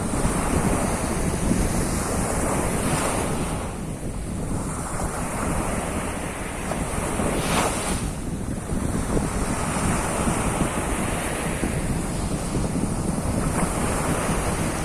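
Sea of Azov surf washing onto the shore, rising and falling every few seconds, with wind buffeting the microphone and adding a steady low rumble.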